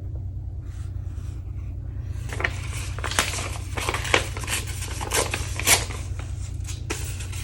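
Sheets of cheap drawing paper being handled: a quick run of crisp paper rustles and scrapes starts about two seconds in, over a steady low hum.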